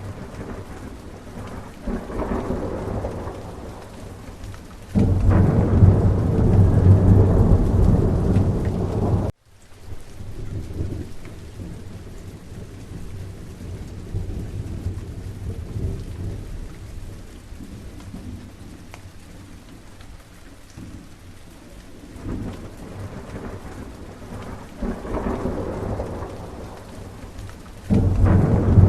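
Steady rain with rolling thunder. A loud, long rumble starts about five seconds in and cuts off suddenly, lighter rumbles follow later, and another loud one begins near the end.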